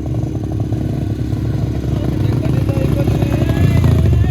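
Small engine running close by with a fast, even firing rhythm, getting louder toward the end.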